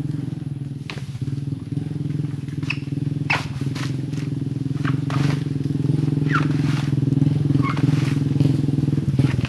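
A small engine running steadily at an even idle, with a few sharp knocks and short squeaks over it.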